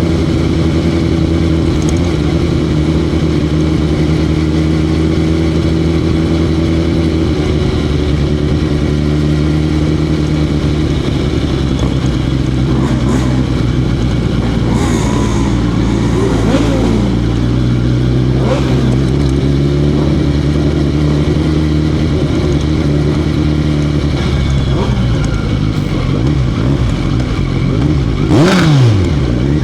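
Motorcycle engine running at a steady pitch throughout. Other engines pass by briefly a few times, rising then falling in pitch; the loudest pass comes near the end.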